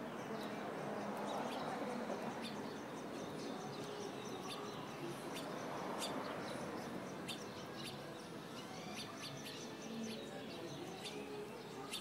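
Small birds chirping nearby: many short, high, scattered chirps, over a steady background rush of outdoor noise.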